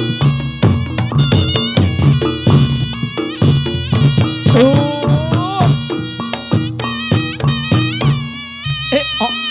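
Reog Ponorogo gamelan accompaniment for jathilan dance: rapid kendang drum strokes under a sustained, reedy slompret shawm melody with ringing gong tones.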